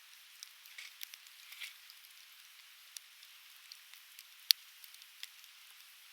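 Softwood logs crackling in a campfire: scattered sharp pops over a faint steady hiss, with one loud pop about four and a half seconds in.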